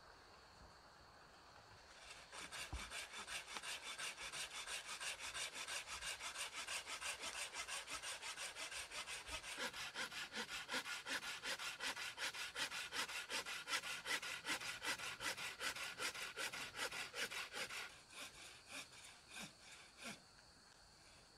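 Hand saw cutting through wood in rapid, even strokes, slowing to a few separate strokes near the end before stopping.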